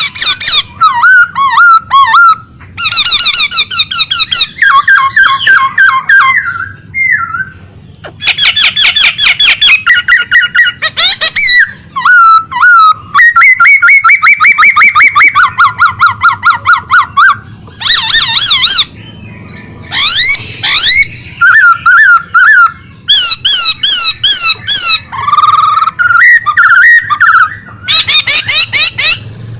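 A pet songbird singing energetically, loud phrase after phrase of fast repeated trilled and whistled notes with short breaks between them.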